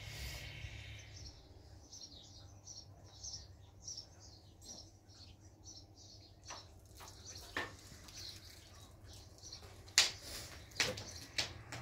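Small birds chirping in quick repeated high calls for the first half, followed by a few sharp knocks, the loudest about ten seconds in.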